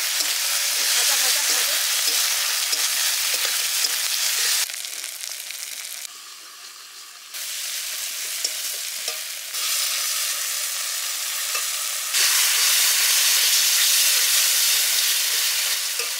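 Sliced onions and ginger-garlic-cumin-coriander-chili paste sizzling in hot oil in a metal kadai while being stirred with a metal spatula, with small scrapes and taps of the spatula on the pan. The sizzle drops abruptly about four and a half seconds in, is lowest around six to seven seconds, and comes back loud from about twelve seconds.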